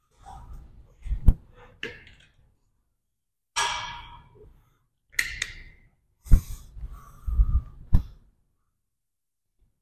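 A man's heavy, forceful breathing and sighing exhales from squat exertion, two of them loud hissing breaths out. Three sharp knocks, about a second in, past six seconds and at eight seconds, are the loudest sounds.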